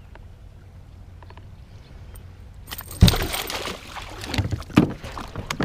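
Water sloshing around a small boat: low rumble with faint clicks, then a sudden loud splash with a heavy thump about three seconds in, followed by scattered knocks.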